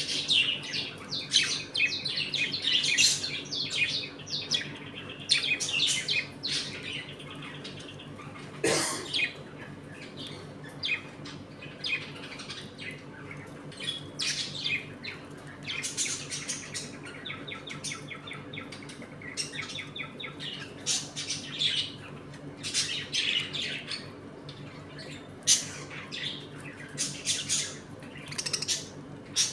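A colony of budgerigars chattering and chirping continuously in quick warbling bursts, with one louder call about nine seconds in. A low steady hum runs underneath.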